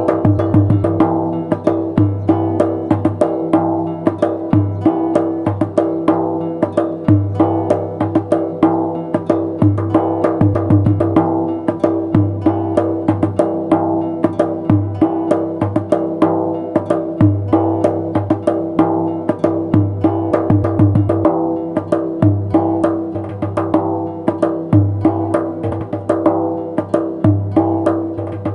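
Music: a fast darbuka (goblet drum) rhythm of many sharp strokes a second, with deep bass strokes every second or two, over a steady sustained melodic backing.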